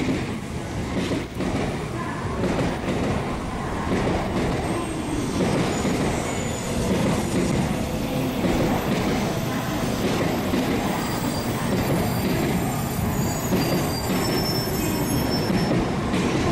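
700 series Shinkansen train pulling into the platform and slowing as its cars run past. It is a dense rumble of wheels and running gear that grows louder over the first few seconds and then holds steady, with faint thin high squeals in the second half.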